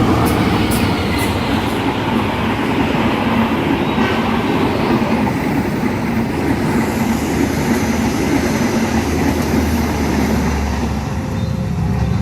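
A long train passing at speed over a level crossing: a steady, loud rumble of wheels on the rails, with a few sharp clicks in the first second or so.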